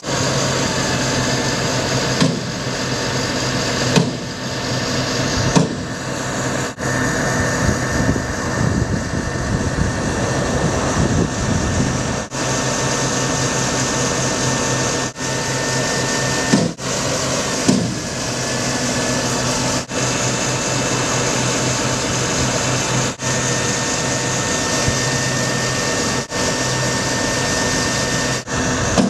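The Ford F750 bucket truck's engine running steadily. The sound breaks off briefly a dozen or so times, where the footage is cut.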